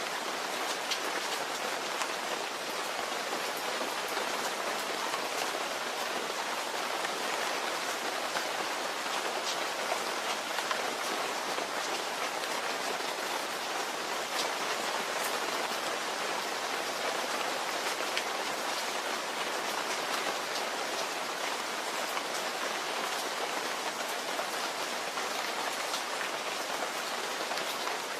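Steady rain falling: an even hiss with many scattered sharp ticks of individual drops.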